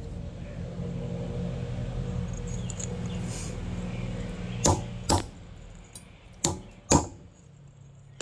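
Steel railroad spike striking a large chunk of milky quartz: sharp cracks in the second half, in two close pairs about half a second apart, with another right at the end. A steady low rumble underlies the first half and fades out around the middle.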